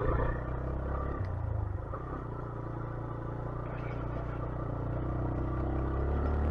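Small 125cc motorcycle engine running steadily as the bike rides along, its note dipping slightly after the first second and slowly building again toward the end.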